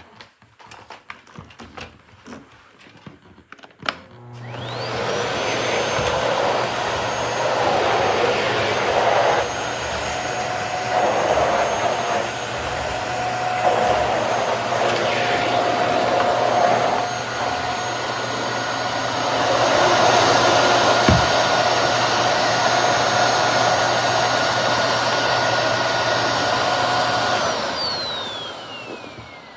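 Miele Boost CX1 bagless canister vacuum cleaner starting up after a few light clicks, its motor whine rising quickly to a high steady pitch. It then runs steadily with a loud rush of air that shifts in level several times. Near the end it winds down, the whine falling away.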